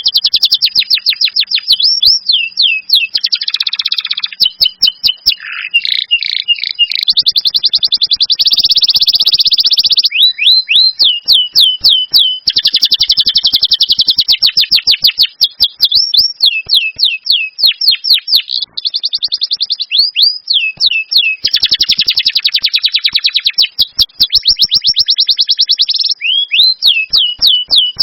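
A recording of songbird song, played continuously and loud: fast, shrill runs of rapidly repeated chips and trills, broken up by quick upward-sweeping notes.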